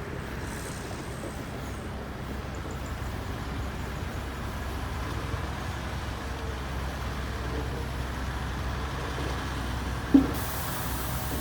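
Heavy diesel earthmoving machinery running under load, a steady low drone that builds slightly. About ten seconds in there is a sharp metallic clank, the loudest moment, followed by a short hiss near the end.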